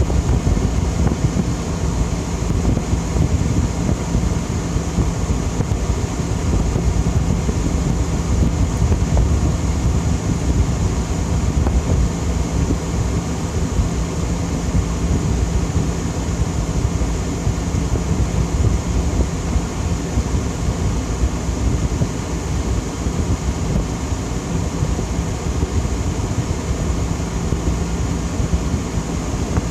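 Fedders 10,000 BTU window air conditioner running steadily on low fan, a continuous rush of air with a low, even hum beneath it.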